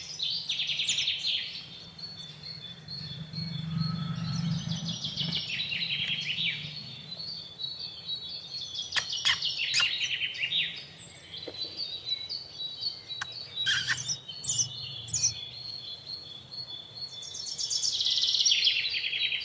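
A baby sparrow chirping in rapid runs of high, repeated chirps, loudest at the start and again near the end. A few sharp clicks come in the middle.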